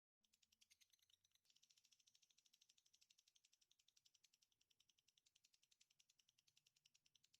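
Very faint, steady, rapid high-pitched trill from an animal call, about a dozen even pulses a second. It starts just after the beginning.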